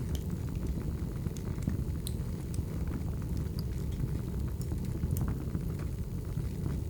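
Wood fire burning: a steady low rush of flames with scattered sharp crackles and pops from the burning logs.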